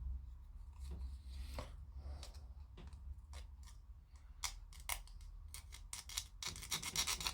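Hobby hand tools working a plastic model kit part: a series of light clicks and scrapes, becoming a quick run of strokes near the end.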